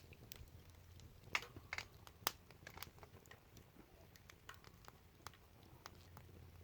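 Wood fire crackling faintly: scattered sharp pops and snaps at irregular intervals, a few louder ones among them.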